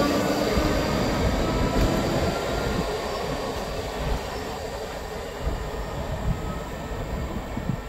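ScotRail passenger train pulling away from a station platform: a motor whine rising slightly in pitch over wheel-on-rail rumble, fading steadily as the train draws off.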